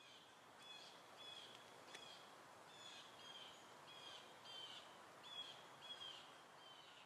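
A bird calling faintly: a short, high chirp repeated evenly a little under twice a second, over a steady outdoor hiss.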